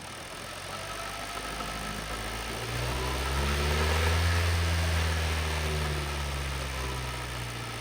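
Car engine revved up smoothly, held briefly near the top, then easing back down toward idle. It is being held at about 2,000–3,000 RPM so a battery tester can check the alternator's charging output.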